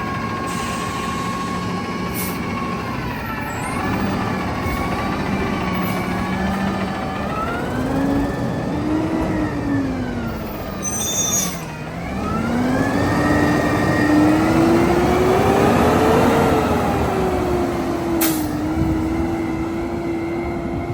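Garbage truck's engine running and revving up and down several times, its pitch rising and falling over a few seconds each.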